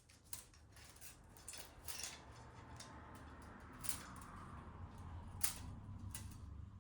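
Scattered light clicks and taps of hand tools and small metal parts being handled, over a low steady hum, with a sharper click about four seconds in and another near the end.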